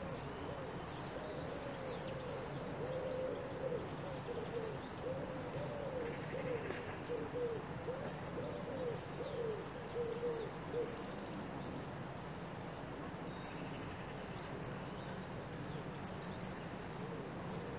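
A bird gives a long run of low, short hooting notes, each rising and falling in pitch, that stops about two-thirds of the way through. Faint high chirps of small birds come and go over a steady low background noise.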